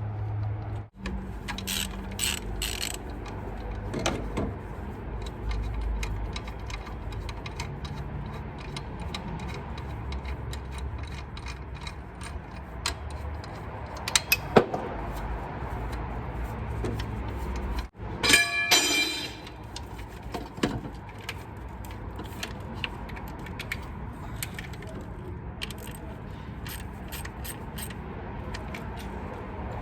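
Hand ratchet wrench clicking and metal tools clinking as bolts are undone on the engine's front accessories, with a quick spell of rapid ratchet clicks about two-thirds of the way through, over a low steady hum.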